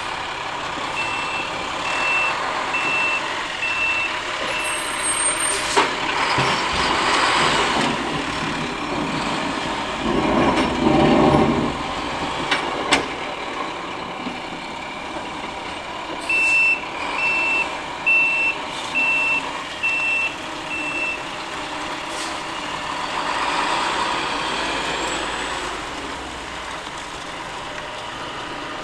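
Backup alarm of a dual-axle International dump truck plow beeping as it reverses, in two runs: about five beeps near the start, then about seven more after a long gap. Underneath runs the truck's engine and plow noise, with a louder surge of rumble about ten seconds in and a few sharp knocks.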